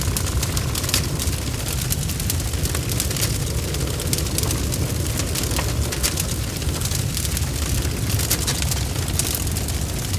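Wood fire crackling, with many small sharp pops over a steady low rumble.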